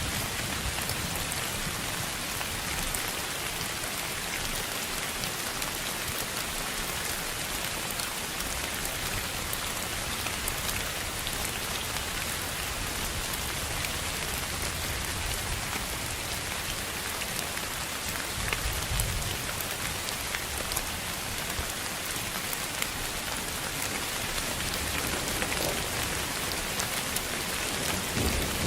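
Steady rain-like hiss spread evenly from low to very high pitches, flecked with faint drop-like ticks. Low rumbles swell briefly about two-thirds of the way through and again near the end.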